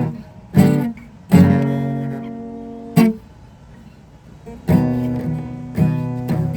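Guitar being strummed: a few single chords struck and left to ring, then a steady strumming rhythm starting about three-quarters of the way in.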